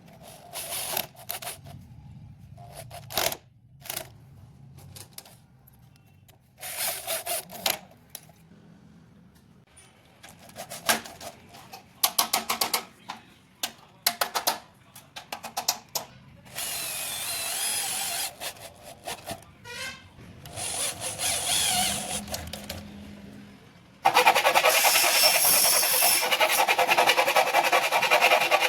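Handheld power drill running in short spells of a second or two, driving screws into aluminium partition profiles, between clicks and knocks of the metal sections being handled. Near the end a louder steady sound starts suddenly.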